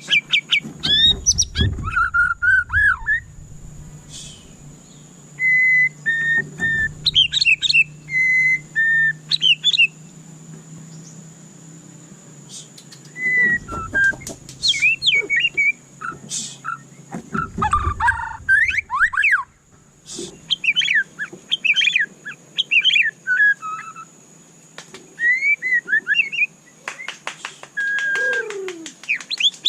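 White-rumped shama (murai batu) singing in bouts of varied whistled phrases: clear held notes, rising and falling slurs and quick runs of notes, with short pauses between the bouts.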